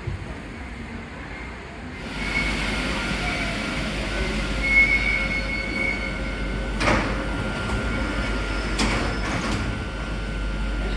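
Paris Métro MP14 train running, with a steady rumble that grows louder about two seconds in and a high squeal over it. A few sharp knocks come near the end.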